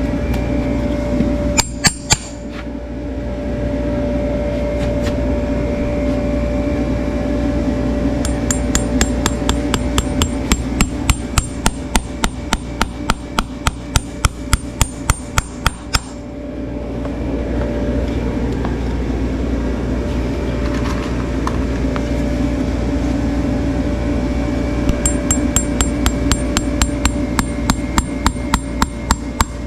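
Quick ringing hammer taps, about three a second, in two runs of several seconds each, over a steady hum.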